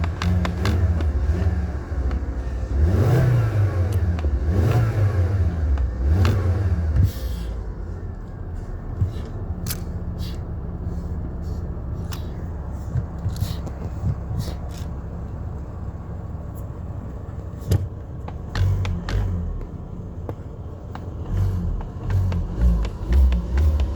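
Car engine being revved in repeated blips that rise and fall, settling to a steady idle for about ten seconds in the middle, then revved again near the end. Short clicks are scattered throughout.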